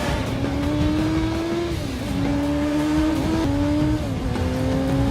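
Car engine accelerating hard, its pitch climbing steadily and then dropping at each of several gear changes.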